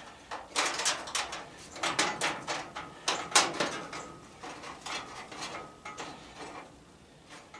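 Irregular clanks and rattles of furnace parts being handled during teardown, busiest in the first three or four seconds, then sparser and fading.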